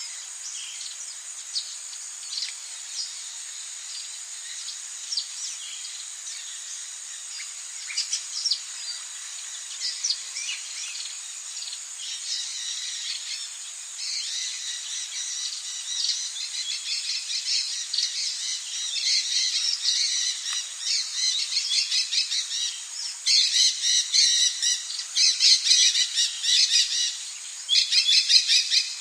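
Rainforest ambience: a steady high insect drone with scattered bird calls, building about halfway through into dense, rapid chattering bird calls that are loudest near the end.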